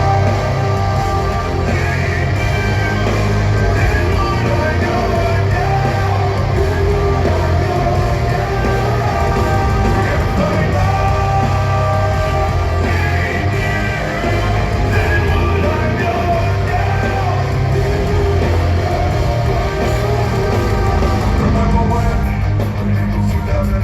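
Live rock band playing a song, a singer's voice carried over a loud, dense band with heavy bass.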